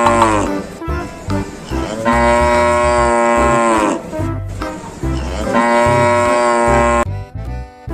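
Cow mooing sound effect: long drawn-out moos that drop in pitch as each one ends, one trailing off at the start and two more about 2 s and 5.5 s in, over background music with a low beat.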